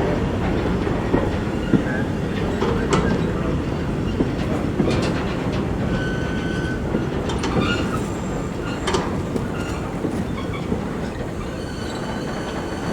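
A train's wheels running on the track, with a steady rumble and scattered clicks over the rail joints. There is a brief thin wheel squeal about six seconds in.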